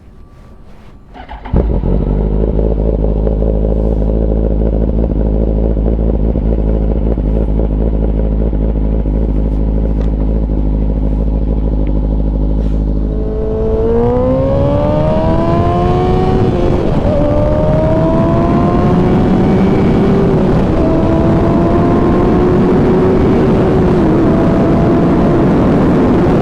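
Kawasaki ZX-10R inline-four motorcycle engine: it comes on suddenly about a second and a half in, idles steadily, then pulls away about halfway through, its pitch climbing and dropping back at each upshift, three or four times.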